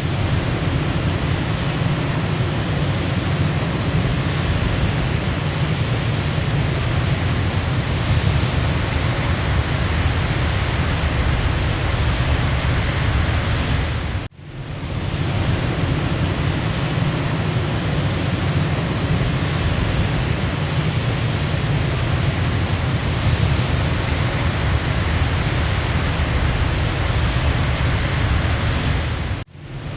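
Waterfall: a steady rush of falling water. The sound drops out suddenly about halfway through and again near the end, fading back in over about a second each time, as at the seam of a looped recording.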